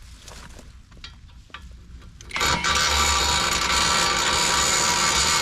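Harbor Freight impact wrench, set to its lowest power setting, running for about three seconds from a little over two seconds in, after a few light clicks of tools being handled.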